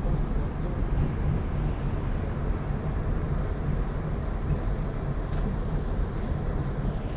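Steady low rumble of a New York City subway N train car running along the track, heard from inside the car, with a few faint clicks.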